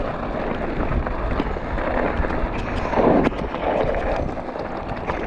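Steady rushing wind noise buffeting the microphone, with a low rumble underneath.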